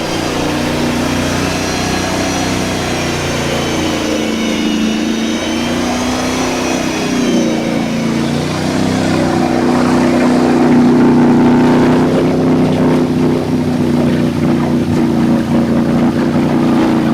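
UAZ Hunter's engine running under load as the truck wades through a long, deep puddle, its pitch shifting and the sound growing louder from about eight seconds in. A high whine sits over the engine for the first several seconds, then fades.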